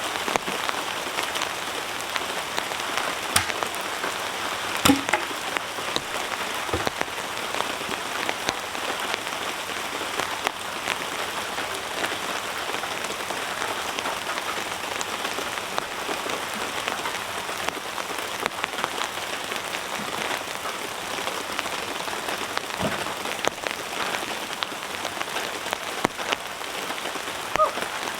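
Heavy rain falling steadily, a dense hiss dotted with sharper clicks of drops, the loudest about five seconds in.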